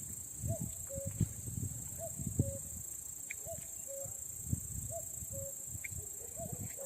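A bird repeating a two-note call about every second and a half, a short higher note followed by a lower one. Under it runs a steady high insect trill, with low rumbling and a few soft thumps.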